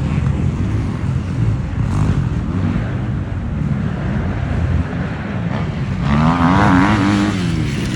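Kawasaki off-road motorcycle engine revving, its pitch rising and falling as the rider works the throttle; it is loudest about six to seven seconds in.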